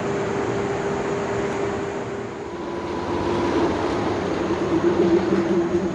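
485 series electric train running on the rails, heard from inside the carriage: a steady rumble with a steady whine, growing louder about three to five seconds in.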